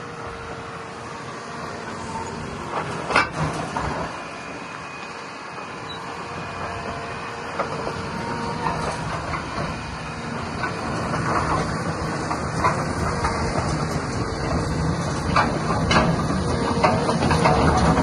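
Cat 336F hydraulic excavator's diesel engine running steadily, with sharp metallic clanks and knocks as the machine operates. It grows louder toward the end.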